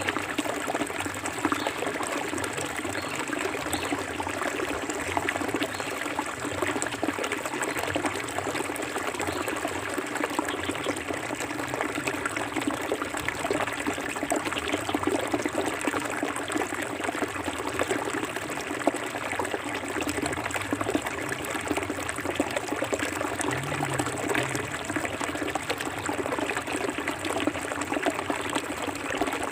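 Forest stream flowing clear over rocks, a steady rush of water with splashing and trickling.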